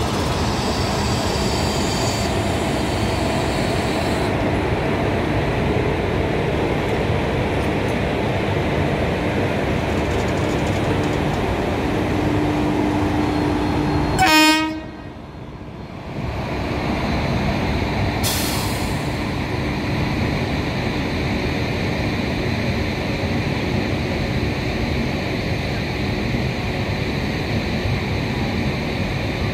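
Passenger express train hauled by a WAP-4 electric locomotive rolling past at low speed, a steady rumble of wheels on rails. About halfway through a train horn is held for a few seconds, ending in a short louder blast, after which the sound drops away briefly before the rumble returns.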